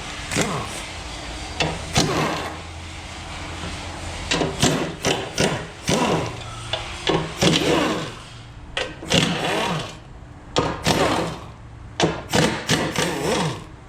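A handheld power tool is run in many short bursts, its motor winding down in pitch after each one. Metal clicks come between the bursts, as when fasteners are run out during an engine teardown.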